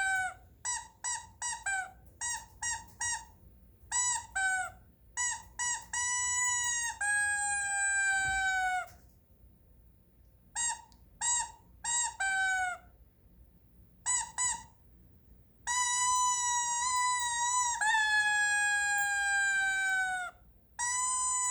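A squeaky toy squeaking in high-pitched squeals: quick runs of short squeaks and several long drawn-out squeals of one to two seconds, each sliding slightly down in pitch, with pauses between.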